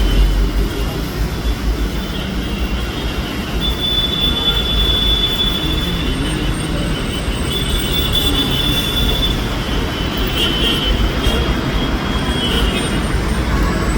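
Steady low rumble of a moving vehicle, with a high, steady metallic squeal twice, about four and about eight seconds in.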